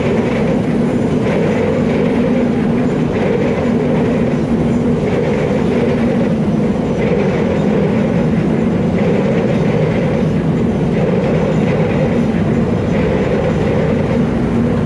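Train running past close by: a steady, loud rumble with a regular clack of the wheels over the rail joints.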